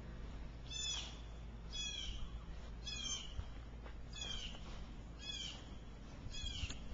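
A bird calling over and over, a short downward-sliding call repeated about once a second.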